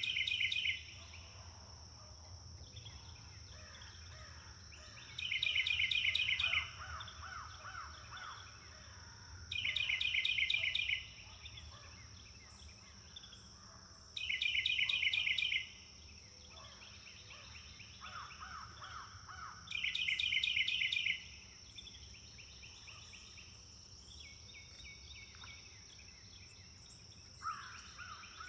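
Forest birdsong: one bird repeats the same loud, rapid trill, about a second and a half long, every four to five seconds, over softer calls from other birds and a steady high-pitched tone.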